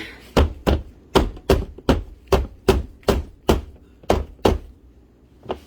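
Plastic panels of a foldable cat litter box being knocked down hard to force their snap-fit tabs into place. About a dozen sharp knocks come roughly three a second, then a pause and one more knock near the end.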